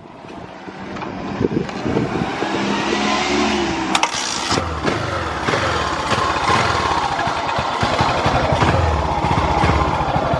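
Yamaha SRX600 all-stock single-cylinder four-stroke engine starting up: it catches within the first second or two, then runs with its revs rising and falling as the throttle is opened. It revs up cleanly with no abnormal noise.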